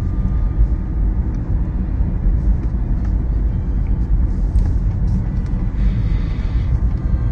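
Steady low rumble of road and tyre noise inside the cabin of a Tesla electric car driving on a suburban street, with a brief hiss about six seconds in.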